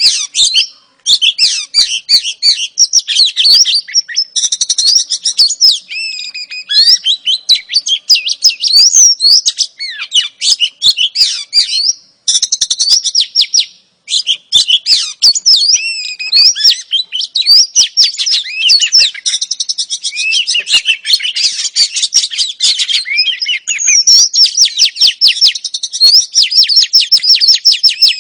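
Oriental magpie-robin (kacer), sold as a female's song, singing a fast, continuous run of chirps, whistles and warbling notes with only a few brief pauses.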